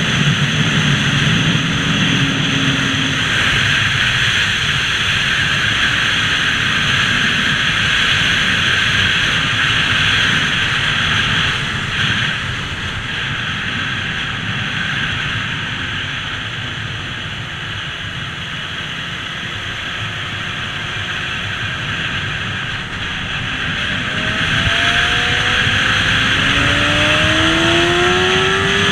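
Riding noise on a moving motorbike: steady wind and road rush. Over the last few seconds the engine's pitch climbs in steps as it accelerates through the gears.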